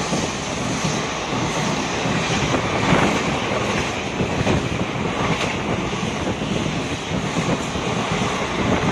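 Express passenger train running past at speed: a steady rush of wheel, rail and coach noise with no horn sounding.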